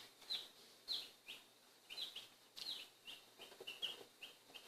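Day-old chicks peeping: a faint run of short, high peeps that slide downward, about two or three a second.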